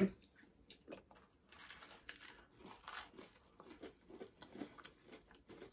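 Close-up eating sounds of mini pizzas being bitten and chewed: a run of soft, irregular crunches and mouth noises.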